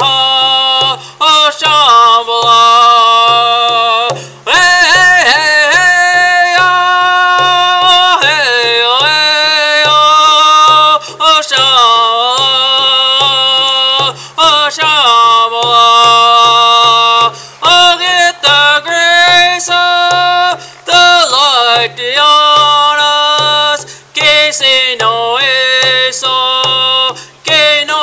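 A man singing a Native American-style spiritual chant in long held notes that bend up and down between phrases, over a steady low drumbeat of about three beats a second.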